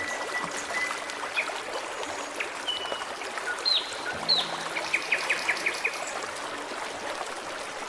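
Forest stream flowing steadily, with songbirds calling over it: a held whistle at the start, two sharp down-slurred notes about four seconds in, then a quick run of about seven short notes.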